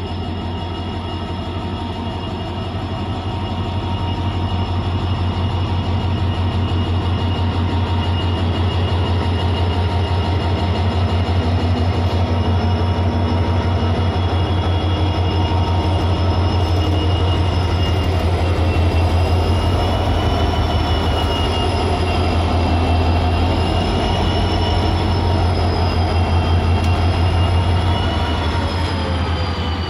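WDG4 diesel-electric locomotive's turbocharged two-stroke V16 engine running, a high jet-like turbocharger whine over a deep steady engine beat. The loudness builds over the first few seconds, the whine wavers in pitch in the second half, and it begins to fall near the end.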